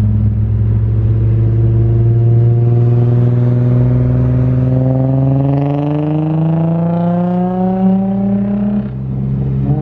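Nissan 350Z's V6 engine running through a newly fitted cat-back exhaust, pulling steadily under acceleration with its note slowly rising. Near the end the pitch drops at an upshift and begins climbing again.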